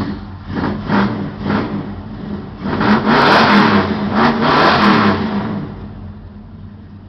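A 383 stroker big-block V8 in a 1967 Dodge Dart drag car starting cold after sitting all morning. It catches and is revved in loud blips from about three to five seconds in, then settles to a quieter idle near the end.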